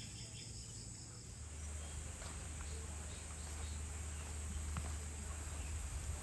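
A steady high-pitched chorus of insects chirring, with a low steady hum that comes up about a second and a half in.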